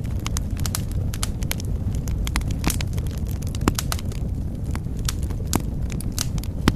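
Fire crackling in a fireplace: irregular sharp pops and snaps over a steady low rumble of burning, with a louder pop near the end.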